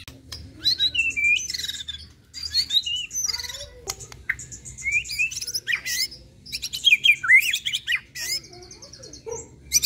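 Caged contest songbird singing a varied song of fast high trills, chirps and rising and falling whistles, in phrases broken by short pauses.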